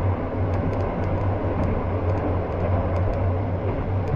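Steady low rumble and running noise of a moving 285 series sleeper train, heard from inside a compartment.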